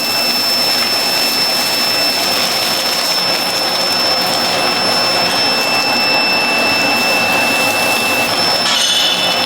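Steady, loud whirring of a workshop machine: a continuous rushing noise with a thin high-pitched whine, which drops out about eight seconds in.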